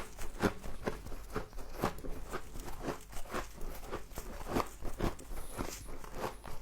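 Frost being crunched and chewed close to the microphone, a steady run of crisp crunches about two a second.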